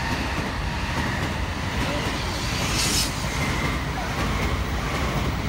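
Shinkansen train running directly below the camera, giving a steady rumble of wheels on rail. A brief hiss comes about three seconds in.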